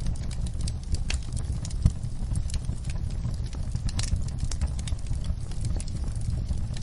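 Wood fire burning in a fireplace, crackling with scattered sharp pops over a steady low rumble; a louder pop about four seconds in.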